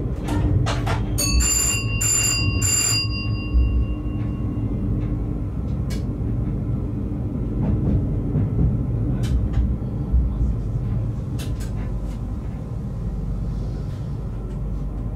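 Train running on the track, heard from the driver's cab as a steady low running noise with a few scattered clicks. About a second in, a bell rings three quick strokes, and its tones ring on for a couple of seconds.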